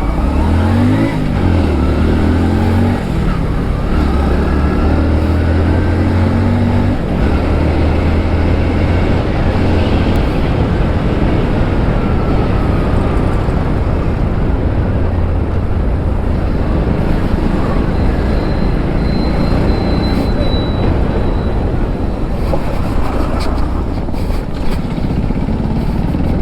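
Motorcycle engine revving briefly about a second in, then running at a steady low note while riding through traffic. After about ten seconds the engine note fades into steady wind and road noise.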